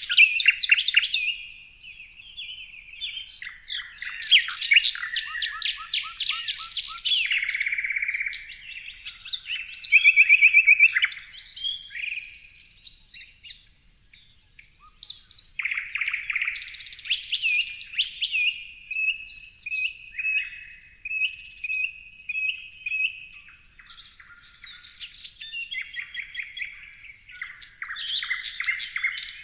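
Several songbirds singing and calling at once, a dense mix of chirps, whistled notes and fast trills.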